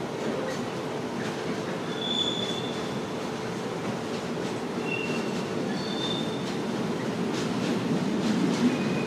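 Freight train of container and tank-container wagons rolling past, a steady rumble of wheels on rail with several brief high-pitched wheel squeals. A few sharp clicks of wheels over rail joints come near the end as it grows a little louder.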